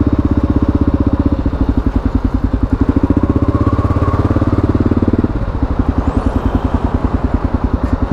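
Kawasaki KLR650's single-cylinder four-stroke engine running at low revs with an even, rapid pulse as the motorcycle rolls slowly through traffic, easing off a little about five seconds in.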